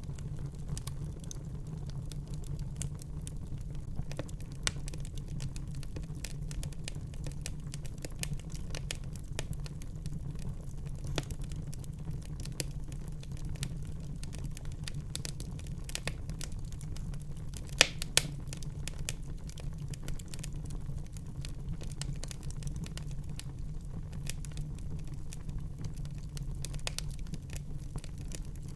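Wood fire burning in a fireplace: a steady low rumble of the flames with scattered sharp crackles and pops throughout, two louder pops about eighteen seconds in.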